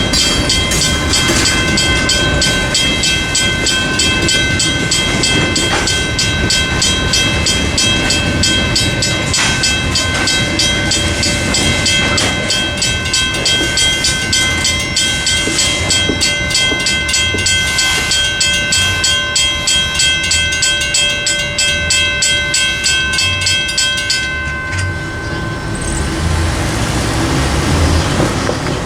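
Freight train rolling over a grade crossing, its wheels and cars rumbling and clacking. Over it the crossing signal's WCH mechanical bell rings rapidly and evenly, then stops a few seconds before the end as the rumble goes on.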